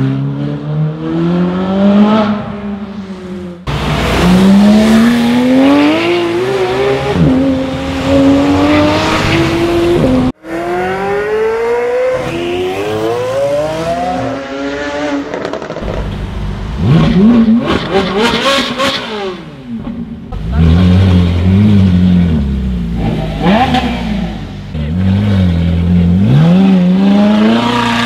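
Supercar engines accelerating hard in several separate runs, each climbing steeply in pitch and dropping back at upshifts, with two abrupt breaks. Among them is the naturally aspirated V8 of a Ferrari 458 Speciale.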